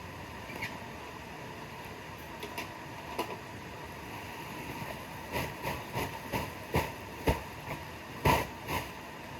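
A run of about a dozen sharp, irregular knocks and thumps, starting about halfway in and loudest near the end, over a steady background hiss.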